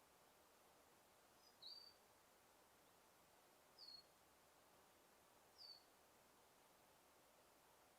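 Faint forest ambience: a bird repeats a short, high chirp three times, about every two seconds, over a soft steady hiss.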